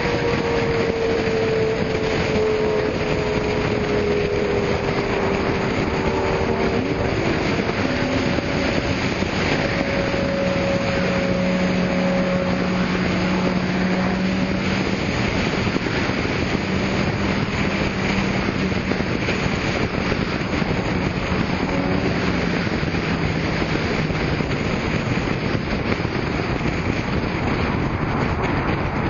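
Car engines running under a steady rush of wind noise on the microphone. One engine's pitch sags slowly over the first few seconds, and another holds steady through the middle.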